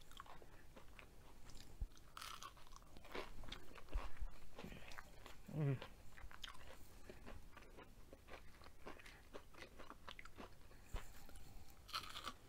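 Close-up mouth sounds of chewing crunchy battered onion rings: many small crunches and wet chewing clicks, with a short 'mm' hum about halfway through.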